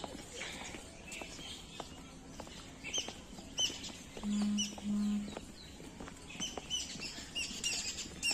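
Birds chirping in the trees, with a run of short, repeated sweeping call notes from about three seconds in. Two brief low hums sound in the middle.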